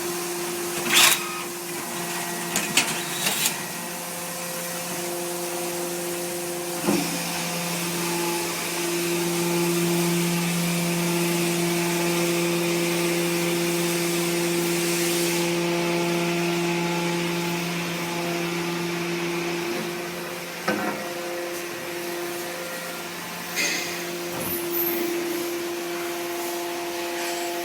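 A full-automatic horizontal baler running, its hydraulic power unit giving a steady hum that grows somewhat stronger for a stretch in the middle. Sharp metallic clanks come about a second in, as a quick cluster around three seconds, and singly near seven, twenty-one and twenty-four seconds.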